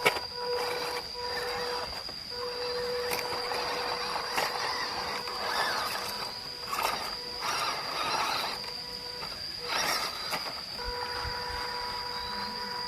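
Electric drive of a radio-controlled Toyota Land Cruiser LC79 model truck: a steady high whine, with irregular rushes of noise every second or so as it drives and climbs over rough ground.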